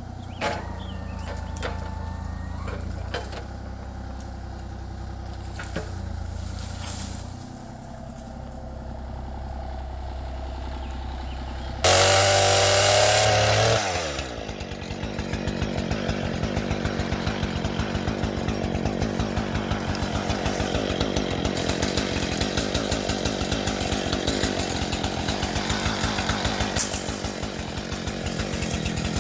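An engine runs at a low steady pitch, revs loudly for about two seconds near the middle and falls back, then keeps running with a fast, even throb.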